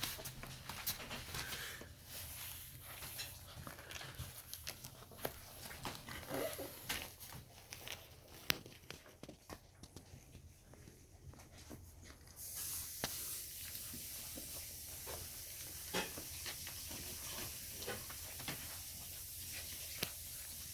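Four-week-old puppies giving occasional short whimpers amid scattered small clicks and scratches as they move about. A steady hiss comes in suddenly a little past halfway.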